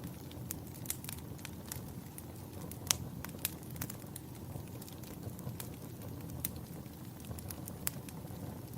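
Campfire burning: a steady low rumble of flames with irregular sharp crackles and pops of burning wood, one louder pop about three seconds in.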